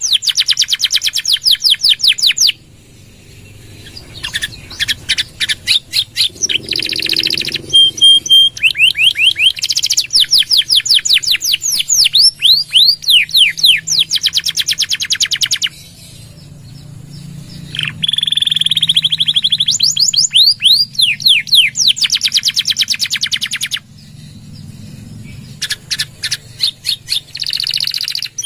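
Domestic canary singing loudly in long rapid trills of fast downward-sweeping notes, each phrase lasting several seconds, with short pauses between phrases and a few brief whistled notes.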